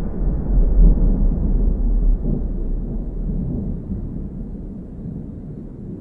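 A deep, noisy low rumble that slowly fades away over several seconds.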